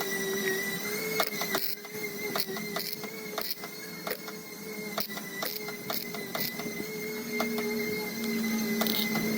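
Irregular light taps on a Ford Ranger's sheet-metal door panel as a dent is knocked out, several a second, over a steady whine.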